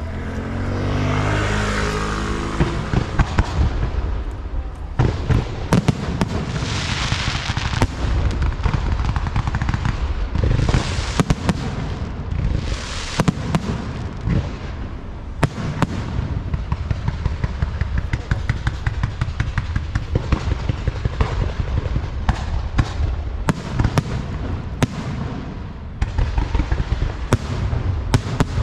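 Many sharp bangs, pops and crackles in quick, irregular succession throughout, mixed with hissing bursts that each last about a second. A pitched tone falls away in the first two seconds.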